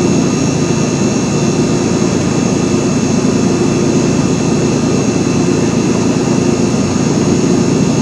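Electric fan running with a steady whir and a low hum, unchanging throughout.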